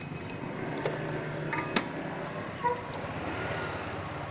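A vehicle engine running steadily during a ride, with a few sharp clinks and knocks in the first three seconds.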